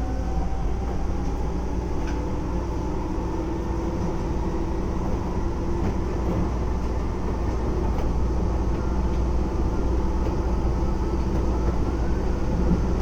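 Keisei 3400 series electric train running, heard from inside the car: a steady low rumble with the chopper-controlled traction motors' whine climbing slowly in pitch as the train gathers speed, and a few faint clicks.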